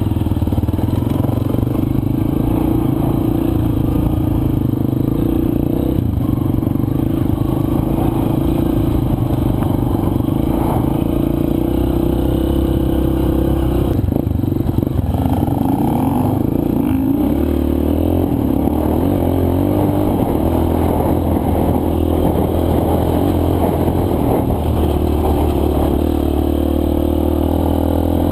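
Four-stroke single-cylinder dirt bike engine running under way on a loose, rocky trail. Its pitch steps up and down a few times as the throttle and gears change, over a constant rattle and scrape from the bike on rough ground.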